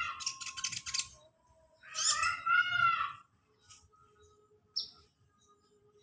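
A sunbird (the 'kolibri ninja' of Indonesian bird-keepers) singing: a rapid, buzzy trill in the first second, a loud chattering phrase about two seconds in, then a few faint scattered notes and one short high note.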